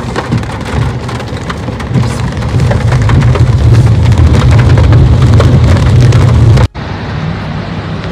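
Heavy rain drumming on a car's roof and windshield, heard from inside the car: a dense patter of drops over a deep rumble that grows louder. Near the end it cuts off abruptly to a quieter steady rushing noise.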